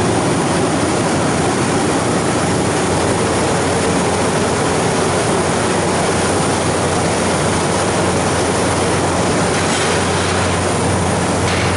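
Refrigeration condensing unit running: the condenser fan's steady airflow noise over a low, even hum from the compressor, while the system is being charged with refrigerant.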